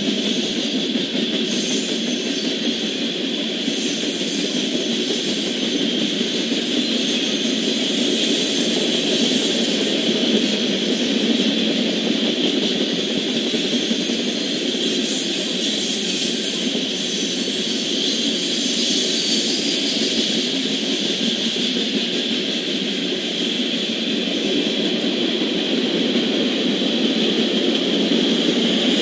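Freight train cars, mostly tank cars, rolling past on the track: a steady, continuous noise of wheels on rails.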